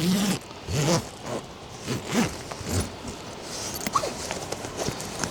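A zipper pulled open or shut in about four short strokes, followed by a few quiet clicks and rustles.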